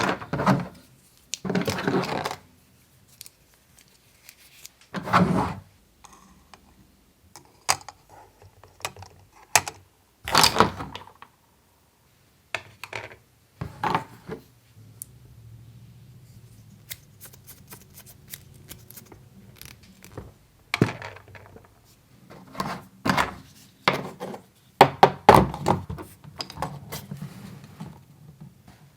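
Small toy kitchen pieces being handled and set down: irregular clicks, taps and short clattering rattles.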